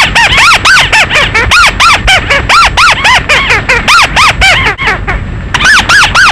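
Recorded call of the mắt xéo bird (chim chuột), a fast string of squeaky rising-and-falling notes at about five a second, played as a night-time lure file. The notes break off briefly about five seconds in and then resume.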